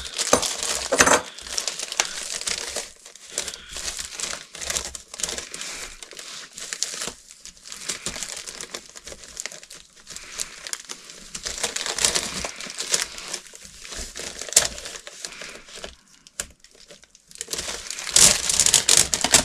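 Irregular crinkling and rustling of materials being handled during a ceiling fan's wiring work, with a louder stretch near the end.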